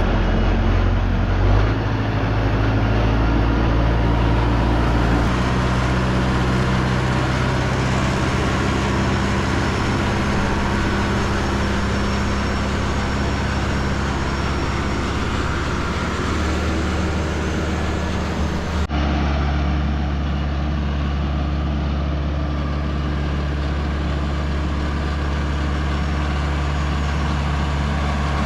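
Tractor engine running steadily under load, its engine speed stepping up and down a few times; after an abrupt change about two-thirds of the way in, it holds a steady speed.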